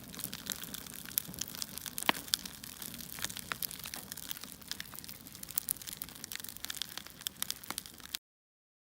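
Wood fire crackling: irregular pops and snaps over a soft hiss, cutting off suddenly about eight seconds in.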